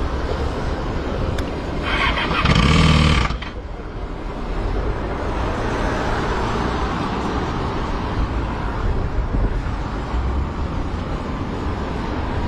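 Motorcycle running on the road with steady rumble and wind noise, broken about two seconds in by a loud, higher-pitched sound lasting about a second.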